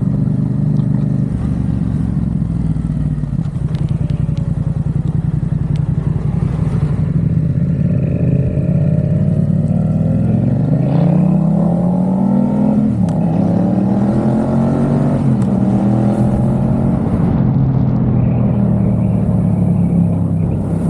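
Yamaha XSR700's parallel-twin engine through a MiVV aftermarket exhaust, running at a steady pace, then pulling hard through the gears. Twice its pitch climbs and then drops sharply at an upshift, a little past halfway, before it settles back to a steady cruise.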